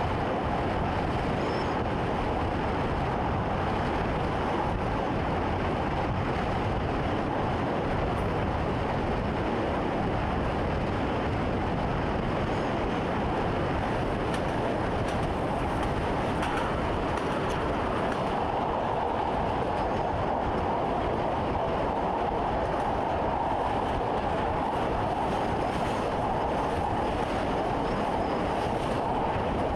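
Electric commuter train running steadily along the track, heard from inside the driver's cab: an even running rumble with no clear wheel-beat.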